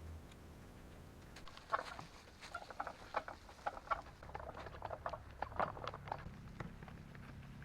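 Wood chips being moved: a run of irregular crunching, rustling clicks that starts about a second and a half in.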